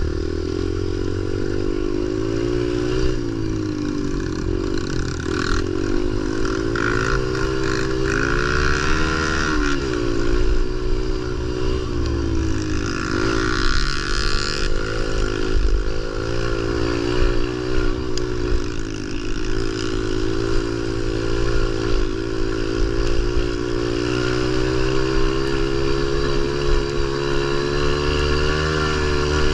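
Pit bike engine revving up and down while being ridden, its pitch rising and falling again and again as the throttle is opened and closed.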